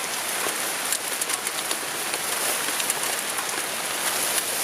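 Steady rain falling, heard as an even hiss with many small drop ticks.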